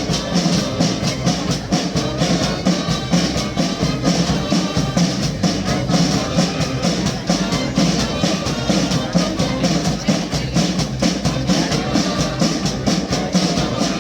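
Police brass band playing, with drums keeping a steady beat.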